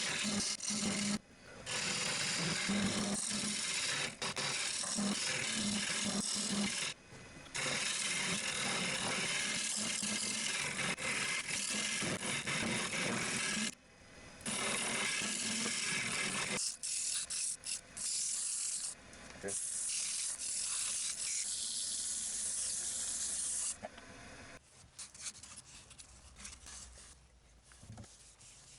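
Abrasive sanding paste being rubbed onto a wooden piece spinning on a wood lathe: a steady, loud rubbing hiss, broken by brief pauses as the pad is lifted, growing patchier in the second half and falling much quieter near the end.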